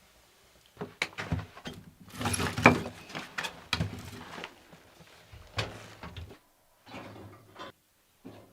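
Irregular knocks, clatters and short scrapes of objects being handled, loudest a couple of seconds in, with a faint knock just before the end.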